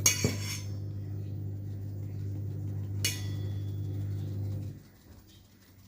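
Metal kitchenware clinking and scraping twice, at the start and about three seconds in, over a steady low hum that cuts off near the end.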